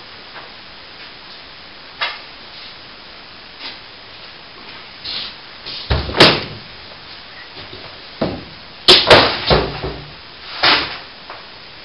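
Loose plasterboard ceiling being pulled down by hand, with a series of sudden knocks, cracks and thuds as pieces break away and land. The heaviest impacts come about six seconds in and again around nine seconds.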